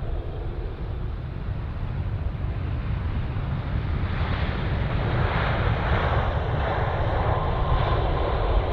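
Jet airliner engines getting louder as the aircraft comes closer, a broad hiss building from about halfway through with a faint whine near the end, over wind rumbling on the microphone.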